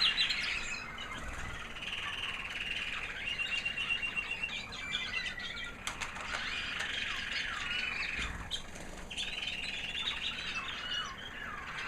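American Singer canary hen singing a high, sweet little song: phrases of quick twitters and trills with short pauses between them. A brief click sounds about halfway through.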